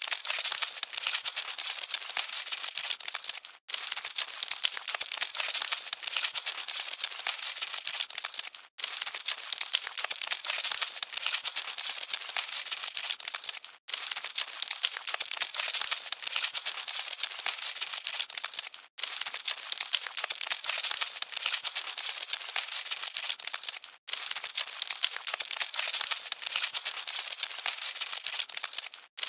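Cockroaches scuttling: a dense, high, dry crackling and rustling, like many tiny scratches at once. It breaks off into a brief silence about every five seconds, where the short recording loops.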